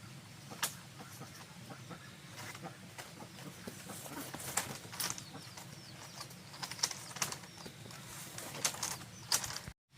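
Scattered sharp taps and clicks, about eight of them at uneven intervals, with faint high bird chirps in the middle; the sound cuts out briefly just before the end.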